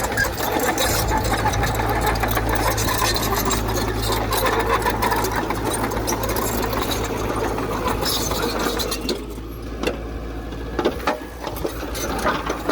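Diesel engine of heavy earthmoving equipment running steadily with a rapid, dense mechanical clatter. It eases off briefly about three-quarters of the way through, with a few sharp clicks.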